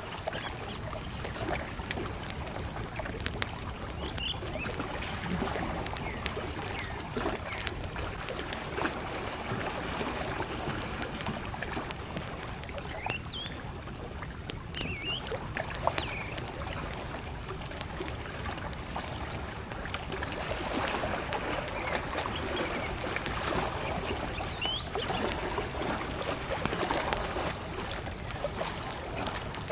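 Wood campfire crackling with scattered sharp pops, over small lake waves lapping steadily at the shore. A few short bird chirps come through now and then.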